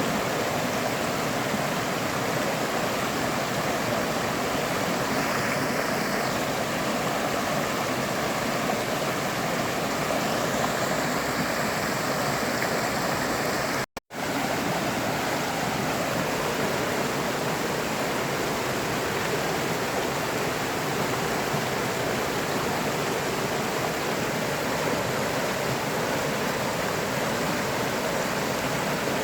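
River water rushing steadily over rocks, an even, unbroken sound. It cuts out completely for a split second about halfway through.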